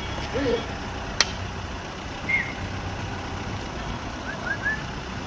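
Low, steady rumble of a vehicle on the move, with a sharp click about a second in and a few short high chirps near the end.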